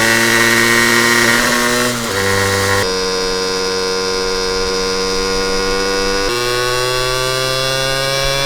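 Honda NS-1's 49 cc two-stroke single running under way, its buzzing exhaust note rising gradually and dropping sharply about two seconds in and again about six seconds in.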